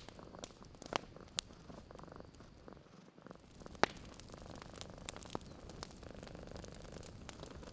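Cat purring steadily, with a short lull about three seconds in, over a wood fire crackling with scattered sharp pops. The loudest pop comes just before four seconds in.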